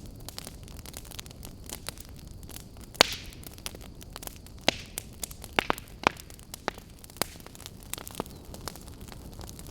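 Wood campfire crackling: irregular sharp pops and snaps over a low steady hiss of the burning fire. The loudest pop comes about three seconds in, with a cluster of strong snaps in the middle.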